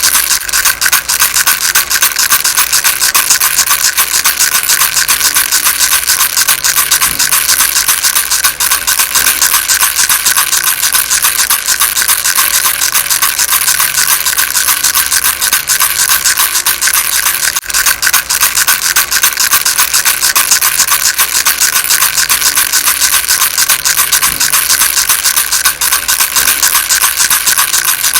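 Baby rattle shaken without pause: a dense, steady rattling.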